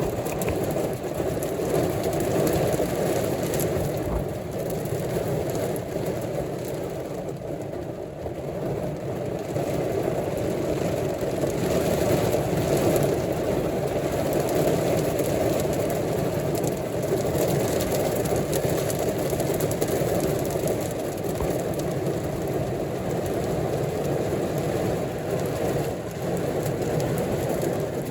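Steady rain falling, an even, unbroken rush of noise.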